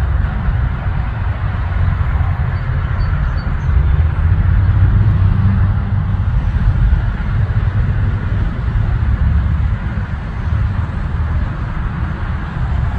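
Jet aircraft engine roar with a deep rumble, fairly steady and swelling slightly a few seconds in.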